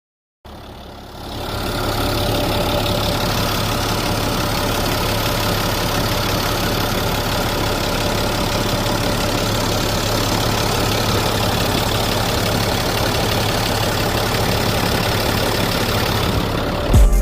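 Vehicle engine idling steadily. It comes in faint, rises over about a second and then holds an even pace.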